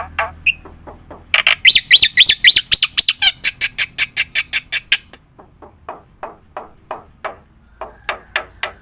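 Black-winged starling (jalak putih) singing in a fast run of harsh, squawking chirps, several a second. The notes are loudest and most crowded in the first half, soften after about five seconds, then grow louder again near the end.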